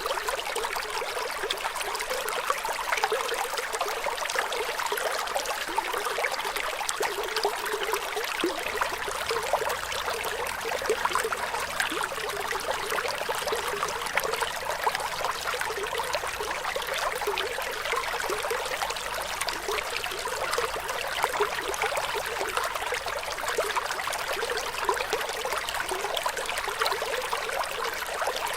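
Flowing water, a stream or small runnel trickling and splashing steadily, a continuous dense rush full of fine splashes.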